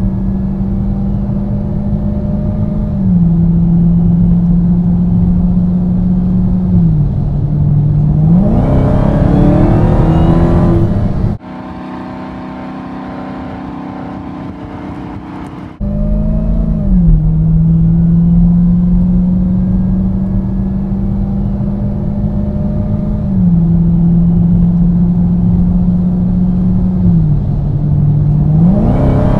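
Dodge Charger V8 running at a steady pitch that drops down in two steps, then rising sharply and growing louder as it accelerates hard about eight seconds in. It cuts suddenly to a quieter, steady engine hum for about four seconds. The pattern then repeats: steady running, two steps down in pitch, and another hard acceleration starting near the end.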